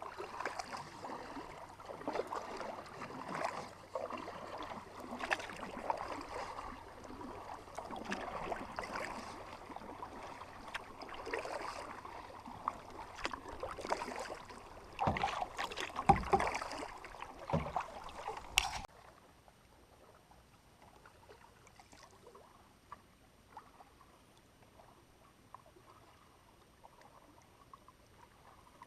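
Canoe paddling: irregular water splashing and dripping from paddle strokes, with sharper splashes now and then. About two-thirds of the way through it cuts off suddenly, leaving only faint water sound.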